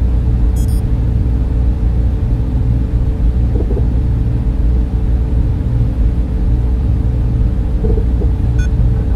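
Server room cooling fans running steadily: a dense low rumble and whir with a constant hum on top.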